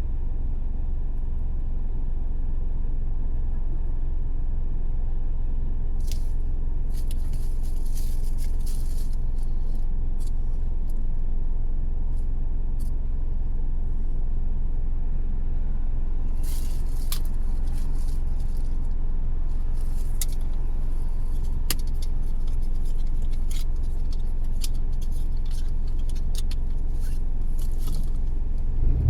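A car driving along at steady speed: a continuous low road and engine rumble, with scattered light ticks and a couple of brief stretches of hiss.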